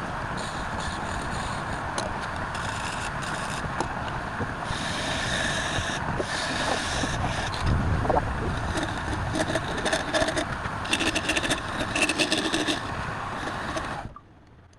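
Wood lathe running, with a turning tool scraping into the spinning wood in irregular bursts. The sound cuts off suddenly near the end.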